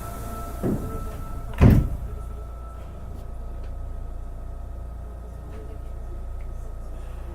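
Sliding doors of a Sapporo Municipal Subway 8000 series car closing: a light thud, then about a second later a louder thump as the doors meet. Afterwards the stationary car's steady low equipment hum.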